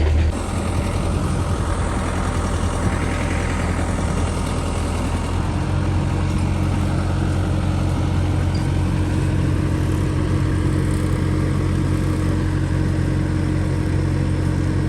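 Mini excavator's engine running steadily, its note dropping slightly just after the start.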